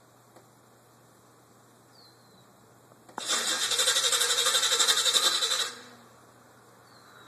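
Chevrolet El Camino's starter cranking the engine in a fast, even pulse for about two and a half seconds, beginning about three seconds in with a click, then stopping: a hard start.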